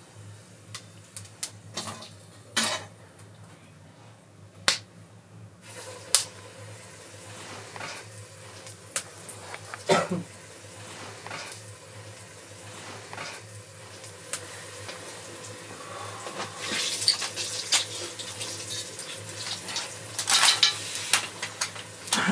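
Food frying in hot oil in a metal pot, sizzling and crackling, with sharp clinks of a metal spatula and tongs against the pot. The sizzle grows louder over the last several seconds.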